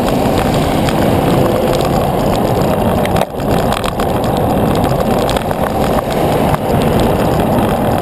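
Wind rush and road noise on the microphone of a moving bicycle, a loud, steady rumble that briefly drops about three seconds in.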